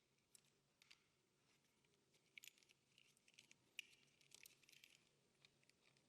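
Faint, irregular light clicks and ticks of metal hand tools: an Allen key turning a bolt out of a wheelchair footplate's leg. Otherwise near silence.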